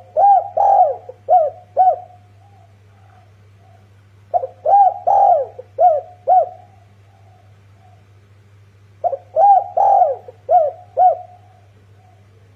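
Spotted dove cooing: three phrases of several quick, arched coos each, about four to five seconds apart, over a faint steady low hum.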